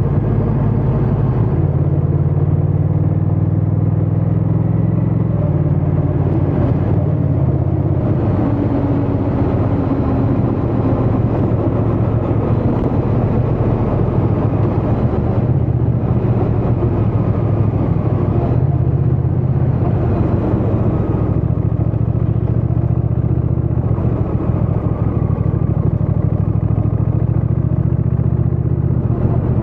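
Honda Rebel 1100 DCT's 1084 cc parallel-twin engine and exhaust under way, heard from the rider's seat. The engine note holds fairly steady, with one step in pitch about five seconds in.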